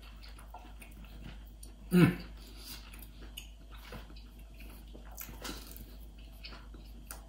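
A man chewing a bite of smoked tri-tip while a serrated knife slices meat on a wooden cutting board, with faint clicks and rustles. About two seconds in there is one short pitched vocal sound, like an 'mm'.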